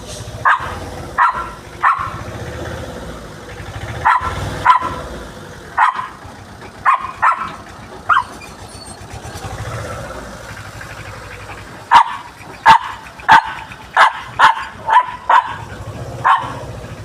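A dog barking in bouts: a few barks, a pause, several more, then a quicker run of about nine barks near the end, over a steady low rumble.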